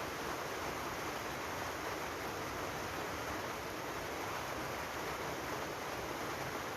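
Steady rain falling: an even hiss with no separate drops or thunder standing out.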